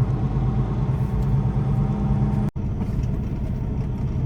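Semi truck's diesel engine running steadily at low speed, a constant low hum. The sound cuts out for an instant about halfway through.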